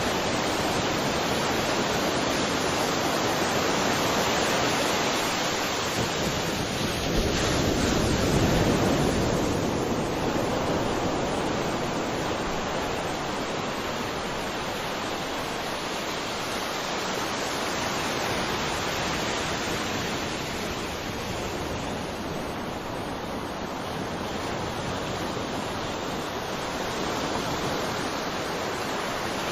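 Ocean waves breaking and washing on a shore, a continuous rushing surf with one stronger wave swelling about eight seconds in and gentler swells after.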